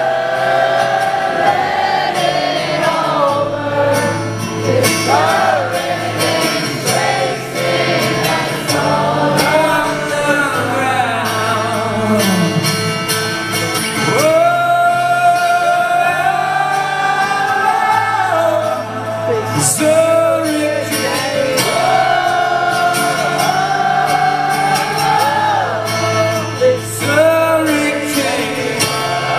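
Live acoustic band performance with held, wordless sung melody lines over sustained accompaniment, heard in a large arena hall.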